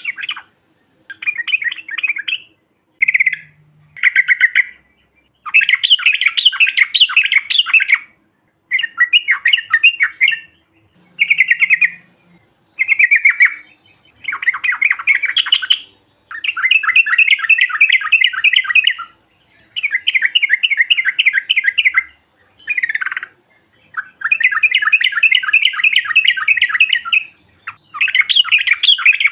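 Yellow-vented bulbul (trucukan) singing a long rolling song: bursts of rapid bubbling notes, each lasting one to three seconds, repeated again and again with short pauses between them.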